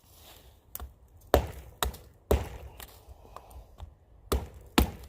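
A pocket knife cutting into the trunk of a dead standing tree: a run of sharp wooden knocks, about two a second, some much louder than others.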